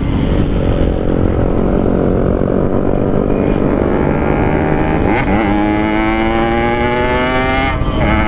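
Yamaha RX King 135cc single-cylinder two-stroke engine with an aftermarket 'belekan' side exhaust, accelerating hard with its pitch climbing steadily. The pitch drops and climbs again at gear changes about five seconds in and near the end.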